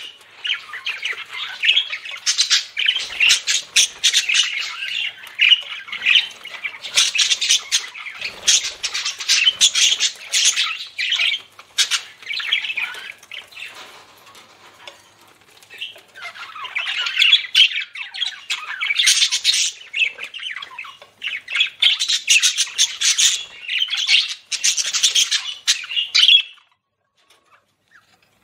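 Budgerigars chattering and warbling in fast, busy bursts of chirps and squawks, easing off for a few seconds midway before picking up again.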